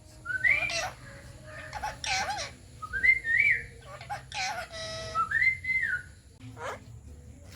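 Parrot whistling and chattering in a string of about five short calls that glide up and down in pitch.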